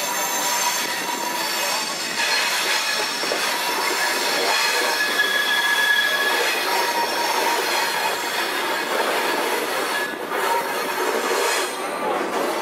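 Passenger train rolling along the rails, heard from an open-air car, with a steady rumble and clatter of the cars. The steel wheels squeal on the curve, a thin high-pitched squeal that is strongest about midway through.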